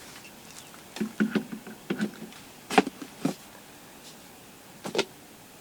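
Several short knocks and clunks, five or six spread over a few seconds, from a portable battery blender's jar being handled and turned upside down.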